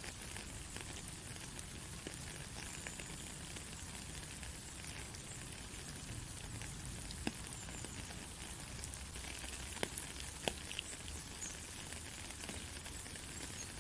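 Steady rain falling on a country road: an even hiss of many drops, with a few sharper single drop ticks, the loudest about ten seconds in.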